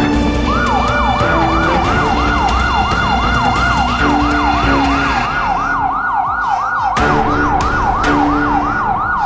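Electronic siren in a fast yelp, its pitch falling and snapping back about three times a second, with music notes playing underneath.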